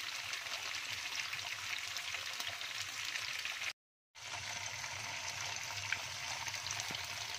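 Cubes of tofu frying in hot oil in a wok: a steady sizzling crackle. The sound cuts out completely for a moment just past halfway, then carries on.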